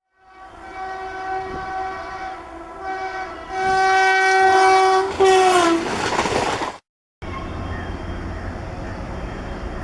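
Electric locomotive horn sounding in several blasts, the last and loudest dropping in pitch as the locomotive passes close by, followed by the rush of the passing train. After a sudden cut, a steady low rumble of a train running.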